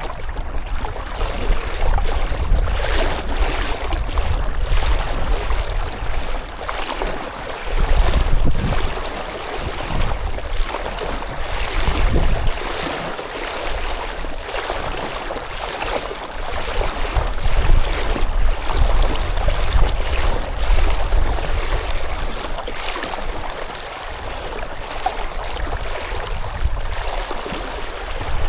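Water splashing and lapping around a canoe, in irregular small splashes, over a low rumble that swells and fades.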